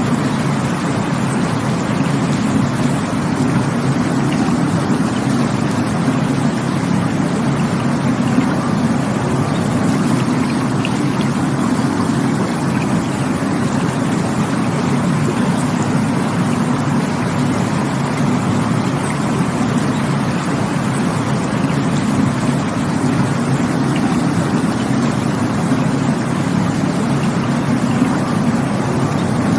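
Rushing stream water, a steady, unbroken rush with a deep low rumble.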